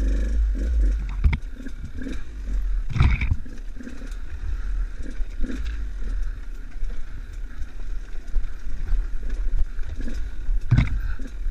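Enduro motorcycle ridden over a rough trail, its engine running at low revs under a steady low rumble, with a few sharp knocks from bumps, the loudest about three seconds in and another near the end.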